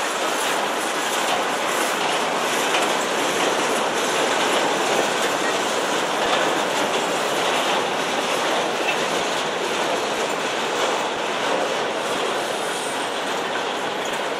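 Freight cars of a manifest train rolling past close by: steel wheels clattering over the rails in a steady, continuous noise.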